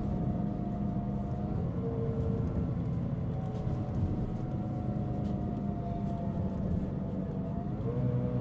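Mitsubishi Fuso Aerostar LKG-MP37FK city bus running: a steady diesel drone with a loud whining tone over it. The whine steps between two pitches early on, then holds and sags slightly near the end. This is the pronounced abnormal noise this particular bus was making.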